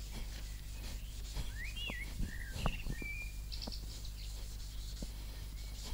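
A songbird sings a brief phrase of whistled, gliding notes about one and a half to three seconds in. Beneath it is faint scrubbing of a plastic headlight lens with a melamine sponge and baking soda.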